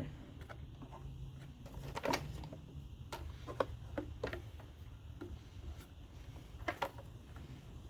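Scattered light metallic clicks and taps from tools and parts being handled on a small lawn mower engine, a few seconds apart, over a faint low hum.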